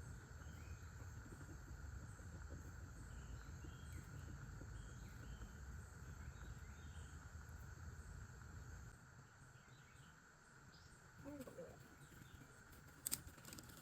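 Steady, high insect chorus, with a low rumble under it that fades about nine seconds in. There are a few faint chirps, a brief faint voice near the end, and one sharp click just before the end.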